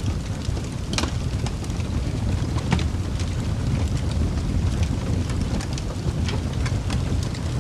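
Wood fire burning in a fireplace: a steady low rumble with scattered crackles and pops, the sharpest about a second in and again near three seconds.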